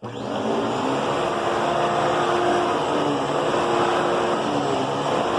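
Fantom Thunder bagless upright vacuum cleaner switched on, its motor coming up to speed within a moment and then running steadily with a loud rushing airflow and a steady whine.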